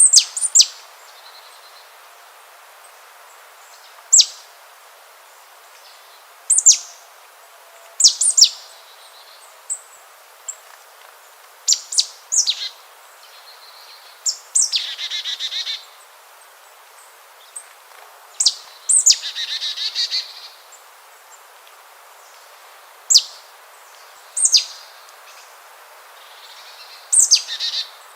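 Bird calling: short, sharp, high notes that fall steeply in pitch, repeated every one to three seconds, with two longer buzzy, rasping calls around the middle, over a faint steady hiss.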